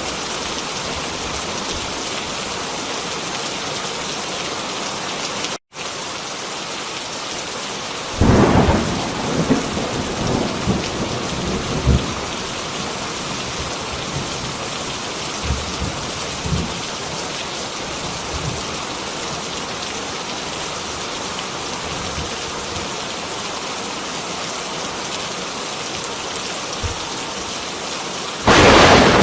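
Heavy rain falling steadily, with a sharp thunderclap about eight seconds in that rumbles on for several seconds, lighter rumbles a few seconds later, and another loud thunderclap near the end. The sound cuts out for an instant about six seconds in.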